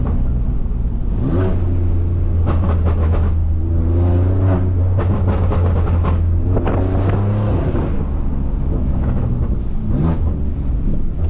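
BMW S55 twin-turbo inline-six exhaust, catless downpipes into an open valved axle-back, revving hard with a deep drone and a few climbs and drops in pitch. Clusters of sharp crackles and pops come in around the middle. The revving goes with the rear wheels breaking loose, which the driver puts down to worn tires.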